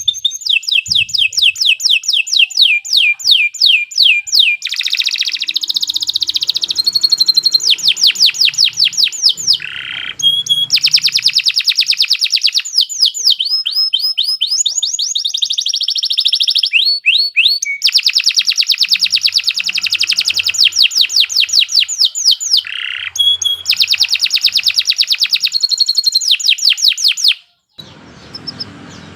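Domestic canary singing in full song: long, fast trills of rapidly repeated sweeping notes, switching from one trill type to the next with only short breaks. The song stops abruptly near the end, leaving a faint low hum.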